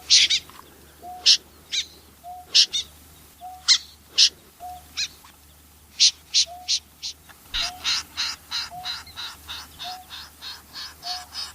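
Snipe calls: sharp, harsh, high calls spaced about half a second to a second apart. From about seven and a half seconds they turn into a rapid, even run of about three notes a second. A soft low short note repeats about once a second underneath.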